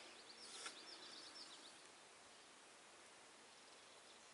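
Near silence: faint outdoor background with a small bird giving a quick run of high chirps in the first second and a half, and a single soft click about half a second in.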